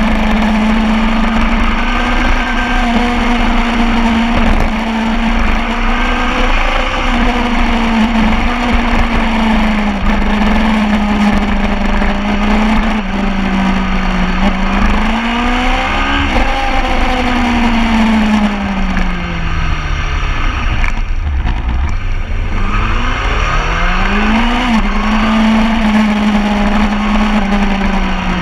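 Superbike engine running hard at high revs, its pitch mostly steady with small rises and falls. It drops steeply about 19 seconds in as the bike slows, then climbs again a few seconds later, over a heavy low rumble of wind.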